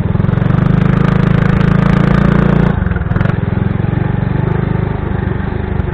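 Motorcycle engine running under throttle with wind rushing past the mic; about two and a half seconds in the throttle closes and the engine drops to a quieter run.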